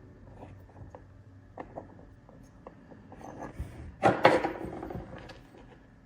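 Drone parts and tools being handled on a workbench: scattered light clicks and knocks, with a louder clatter about four seconds in that dies away over a second.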